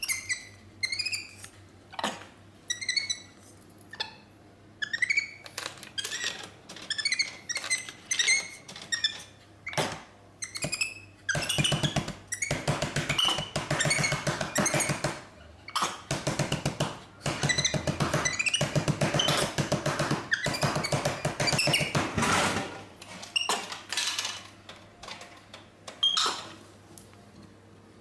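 Capuchin monkey giving short, high, squeaky chirps, mixed with clicks and knocks. Through the middle there is a long stretch of rapid rattling, with a steady low hum underneath.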